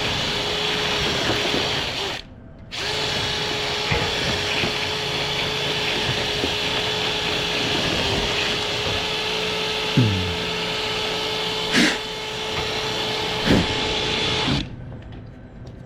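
Power drill running steadily as it spins a rotary brush through a lint-clogged dryer vent line. It stops briefly about two seconds in, runs on with a few knocks, and cuts off near the end.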